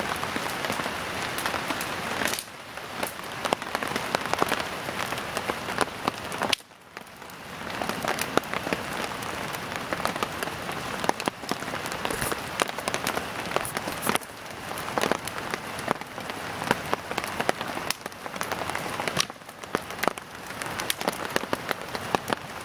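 Steady rain falling, a dense patter of drops. The sound drops away suddenly about seven seconds in and builds back over a second or so.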